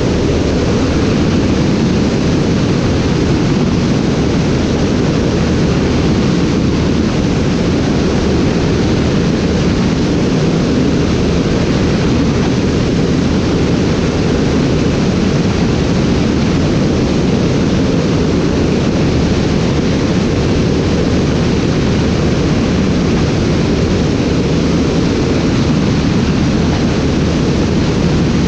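Steady noise of an aircraft in flight, recorded on board: an even rush with a low hum underneath that does not change.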